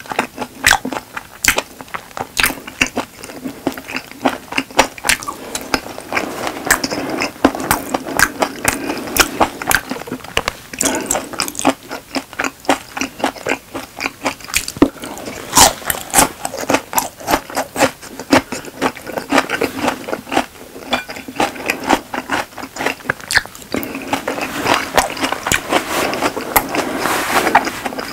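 A person chewing food close to a clip-on microphone: wet mouth smacks and clicks come irregularly, several a second, throughout.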